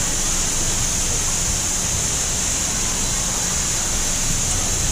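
Steady rush of running water, like a water slide or waterfall, with wind rumbling on the microphone and faint distant voices.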